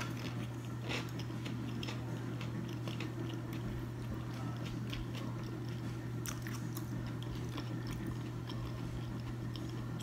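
Close-miked chewing of a mouthful of salmon, wild rice and broccoli, with scattered soft wet mouth clicks, over a steady low hum.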